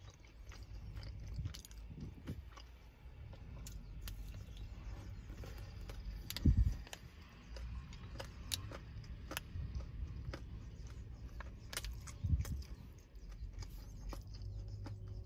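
Close-up chewing of a soft, chewy date-and-almond fruit bar, with scattered small crunches and clicks. There are two louder thumps about six and twelve seconds in, over a low steady rumble.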